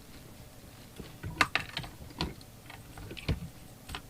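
Irregular light clicks and knocks of a microphone and its cable being handled on a workbench, about half a dozen at uneven intervals.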